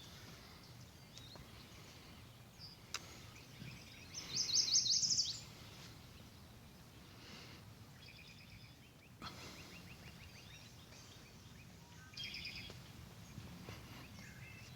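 Wild songbirds singing: a loud, rapid trill of high notes about four seconds in, a shorter phrase later, and faint chirps between, over a steady low rumble of outdoor background noise.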